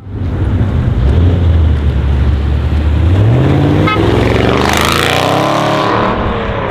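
Audi RS6 C7's twin-turbo V8 with a decatted Milltek exhaust, starting loudly on a low, steady note and then rising in pitch as it accelerates from about three seconds in.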